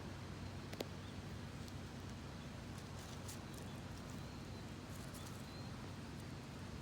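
Quiet room tone with a steady low hum, a single sharp click a little under a second in, and a few faint high ticks and short chirps later on.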